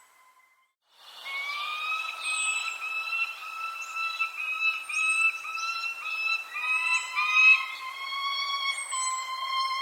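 Birds calling: after about a second of near silence, a long run of short, repeated, even-pitched notes sets in, with brief high, falling chirps above them.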